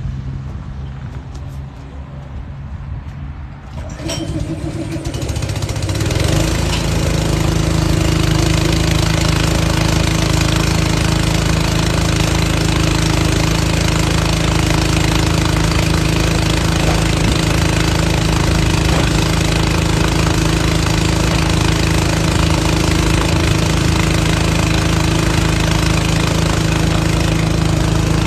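Engine-driven air compressor starting about four seconds in, then running steadily at a constant speed.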